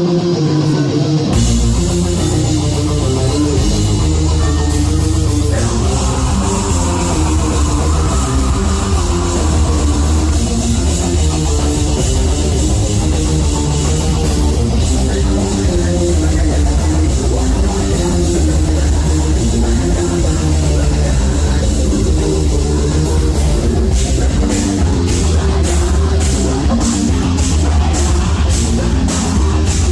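Heavy metal band playing live and loud: distorted guitars and bass over a drum kit, with regular drum and cymbal hits standing out in the last several seconds.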